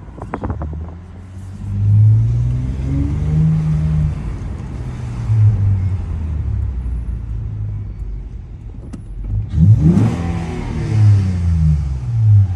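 Acura TL's V6 running through a muffler-delete exhaust while driving, the exhaust note rising and falling with the throttle, with a quick climb in revs about ten seconds in.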